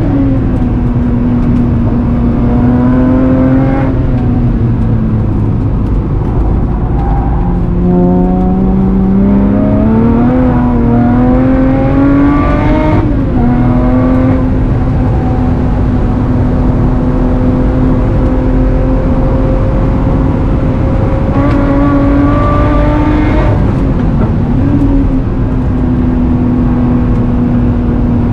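Supercharged V6 of a Lotus Exige heard from inside the cabin while lapping a race track: the engine note climbs under acceleration, drops sharply at gear changes about 13 and 23 seconds in, and holds a steady pitch for several seconds in between, over heavy tyre and road noise.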